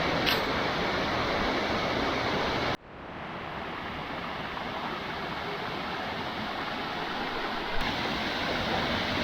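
Steady rushing of a waterfall. About three seconds in it cuts off abruptly, then swells back within a second, a little quieter and duller.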